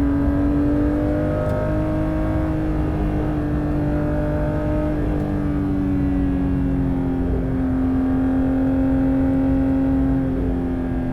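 Porsche 992 GT3's 4.0-litre naturally aspirated flat-six running at sustained high revs through its lightweight exhaust. The note holds a fairly steady pitch that sags slowly, with a brief break about a second and a half in.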